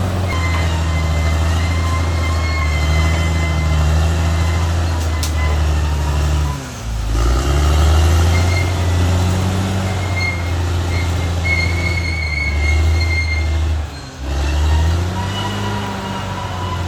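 Caterpillar D6R XL bulldozer's diesel engine running steadily under load, with a deep low drone. The engine note sags and recovers twice, about seven and fourteen seconds in, and faint thin high squeaks come and go over it.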